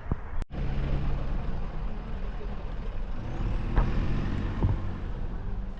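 A vehicle engine running with a steady low rumble, after a brief dropout about half a second in.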